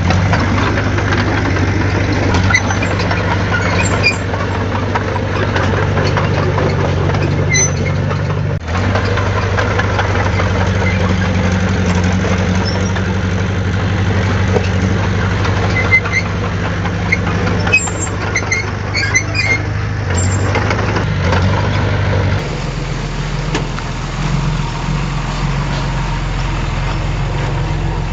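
Heavy diesel earthmoving machinery running steadily, with its engine note shifting abruptly twice and sharp metallic clanks now and then in the second half.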